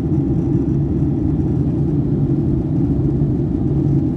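Steady cabin noise of a Boeing 757-200 in flight: a deep, even engine and airflow rumble with a constant low hum.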